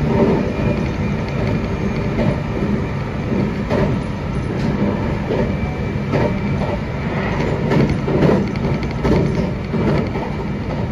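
Meitetsu 2200 series electric train running at speed, heard from inside the driver's cab: a steady rumble with irregular clicks and knocks as the wheels cross rail joints and points.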